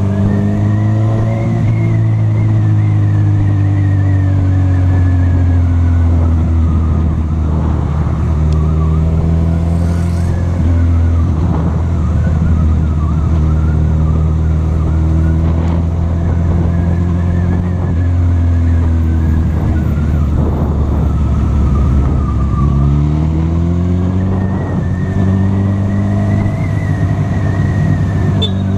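Honda CB1000R's inline-four engine running as the motorcycle is ridden through traffic. Its pitch falls as it slows over the first few seconds, holds steady through the middle, and rises as it accelerates a few seconds before the end.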